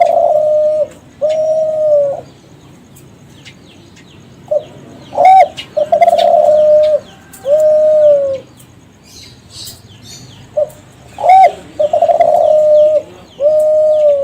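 Kelantan-breed spotted dove (derkuku) cooing: a song phrase repeated about every six seconds, each a short note, a rising-and-falling note, then two long level coos. One phrase is ending as it starts, and two full phrases follow.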